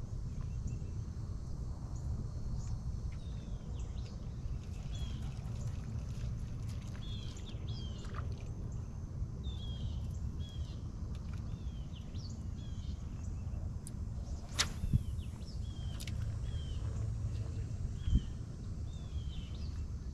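A bird calling over and over, short high curved chirps repeating through most of the stretch over a steady low rumble. A single sharp click sounds about two-thirds of the way through.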